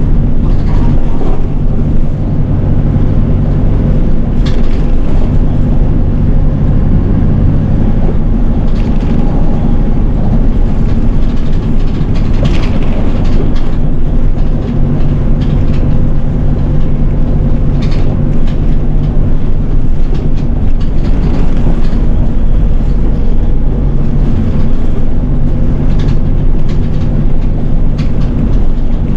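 City bus engine and running noise as the bus drives along: a steady low drone whose pitch shifts a little with engine speed, with the odd faint rattle or click.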